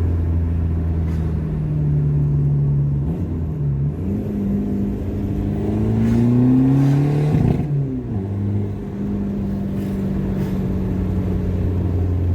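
Seat Ibiza with a straight-through 2.5-inch stainless steel exhaust, driving: a loud, steady exhaust drone, a short dip about three seconds in, then the engine note rises under acceleration for several seconds and falls sharply before settling back into a steady drone.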